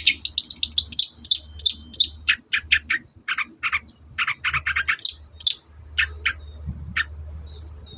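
Long-tailed shrike (cendet) singing a fast run of short, sharp chirps and calls. The notes come quickly at first, thin out about halfway through, and nearly stop near the end.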